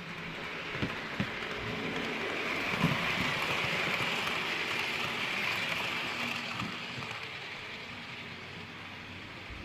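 Model train running past on a layout track: a steady hiss of wheels and motor that swells and then fades as it goes by, with a few sharp clicks in the first three seconds.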